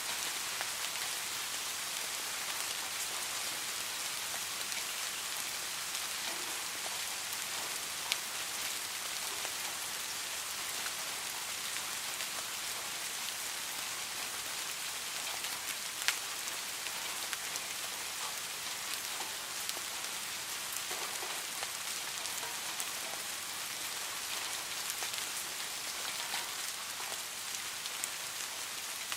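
Steady rainfall: a dense, even patter of raindrops, with a few louder single drop ticks standing out, about eight and sixteen seconds in.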